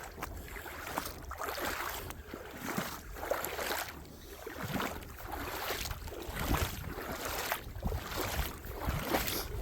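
A string of footsteps over the rocks and gravel of a creek bed, with a low wind rumble on the microphone.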